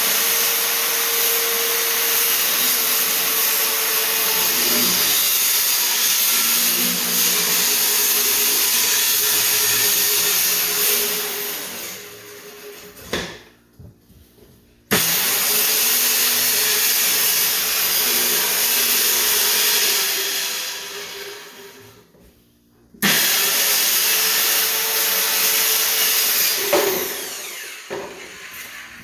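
Handheld electric power tool running loud in three long stretches, the first about twelve seconds, then two shorter ones; each starts abruptly and ends with the motor's pitch and level falling away as it coasts to a stop.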